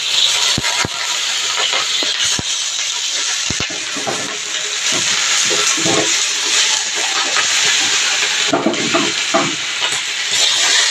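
Small river fish frying in a wok, a steady loud sizzle, with a few sharp clicks in the first few seconds.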